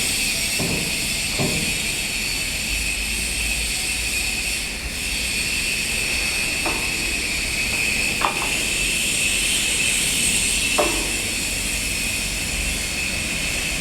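Hitachi EX200-5 excavator's diesel engine and hydraulics running steadily, with a hiss, and a few sharp metallic clinks of tools on the machine, spaced a few seconds apart.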